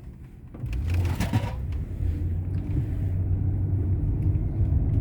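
Low, steady rumble of a truck driving by, which gets much louder about half a second in. A few brief crackles come around a second in.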